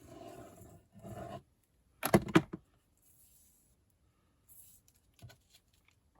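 Craft materials being handled on a desktop: soft rustling, then a quick cluster of sharp clicks and knocks about two seconds in, followed by a few faint ticks.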